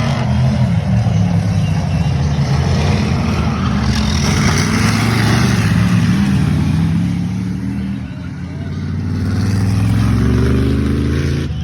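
Racing stock car engines running hard, with several pitched engine notes heard together. The sound dips about eight seconds in and swells again.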